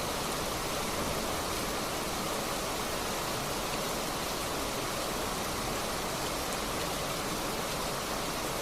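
Fast-flowing flash-flood water rushing with a steady, unbroken noise.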